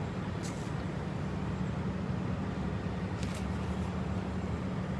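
Vehicle engine running steadily with a low hum, with two short hisses about half a second and three seconds in.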